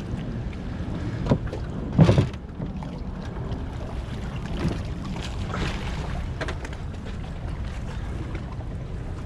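A few knocks and clunks over a steady low rumble, the loudest knock about two seconds in.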